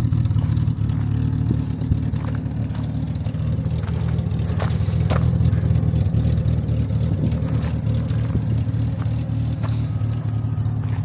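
Triumph TR6's 2.5-litre straight-six idling steadily through its current exhaust, with a few faint clicks over the top.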